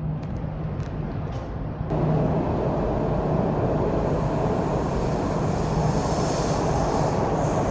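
MTR Island Line Q-Train metro train arriving at an underground platform: a low rumble, then about two seconds in a sudden rise to a loud, steady rush of wheel and running noise as the train comes alongside.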